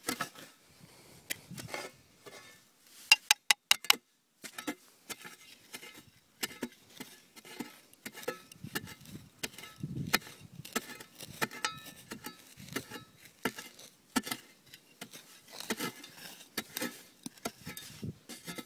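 Small hard bits clicking and clinking as burnt debris and metal buttons are picked through, with a quick run of four or five louder, slightly ringing metallic clicks about three seconds in.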